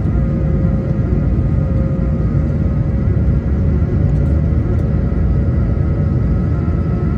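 Airbus A220 cabin noise during landing: a steady low rumble of airflow and engines, with a faint constant whine of a few steady tones over it.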